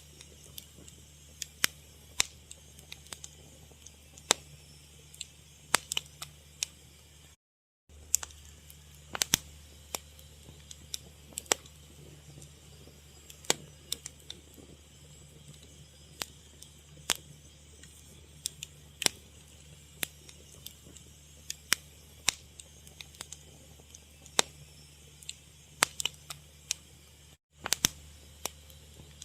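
Wood fire crackling: irregular sharp pops and snaps, several a second at times, over a faint low hum. The sound cuts out completely for a moment twice, about a third of the way in and near the end.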